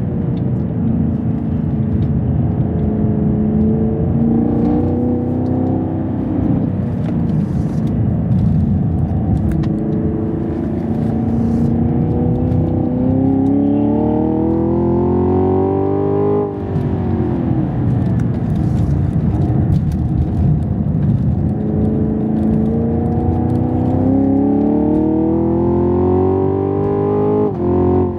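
A Camaro SS 1LE's naturally aspirated 6.2-litre V8 pulling hard under load on track, heard from inside the cabin. Engine pitch holds fairly steady, then climbs twice, about halfway through and again near the end, each climb ending in a sudden drop.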